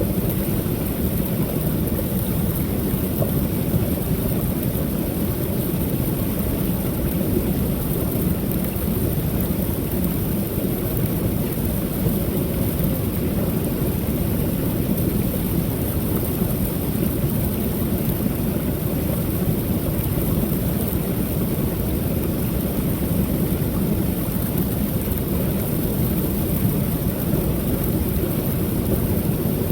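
Waterfall on a creek: a steady, low, full rush of falling water over the falls, unchanging throughout.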